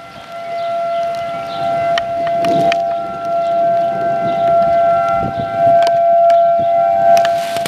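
Outdoor tornado warning siren sounding one steady tone, with a few faint clicks over it.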